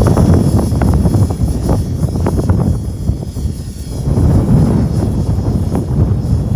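Radio-controlled helicopter flying in strong wind: a faint steady high whine from the model over heavy, gusting rumble of wind on the microphone, swelling again a little past the middle.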